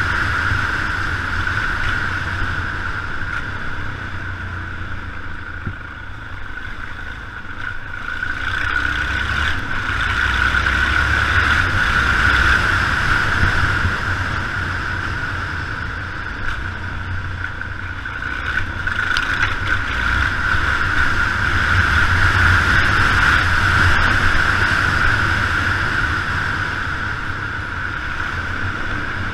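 Yamaha XT 600 single-cylinder motorcycle engine running while riding, mixed with steady road noise from tyres on a wet road. The loudness dips and swells a few times.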